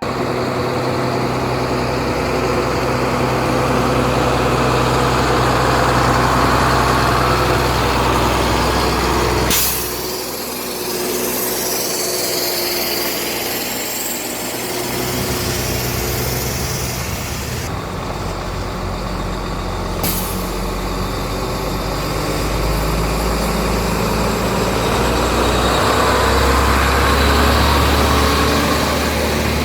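Diesel engine of a heavy concrete mixer truck running under load on a steep uphill climb. The sound changes abruptly about ten seconds in and again about twenty seconds in.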